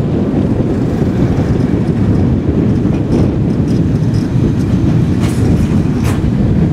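Zillertal Railway narrow-gauge carriage running along the track, heard from its window: a steady rumble of wheels on rail, with two sharp clacks about five and six seconds in.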